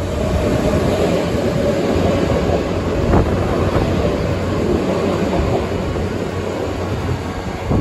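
Kintetsu electric commuter train running past the platform close by: a steady rumble and rush of wheels on rails, with a sharp clack about three seconds in.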